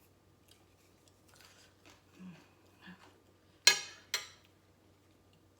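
Two loud, crisp crunches about half a second apart, a little past the middle, as a mouthful of raw vegetable is bitten into, with faint chewing and two short hums before them.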